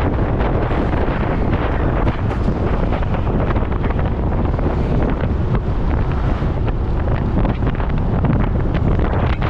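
Wind buffeting the microphone of a moving motorcycle: a steady, loud rush of air.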